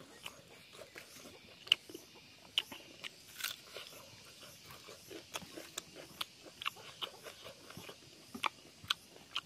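Close-up chewing and lip smacking of a person eating rice and pork by hand, with sharp, irregular wet mouth clicks.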